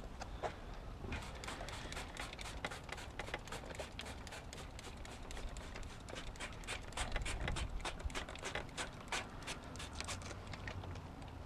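Irregular light clicks and rustles of hands handling cleaning gear, with no steady rhythm.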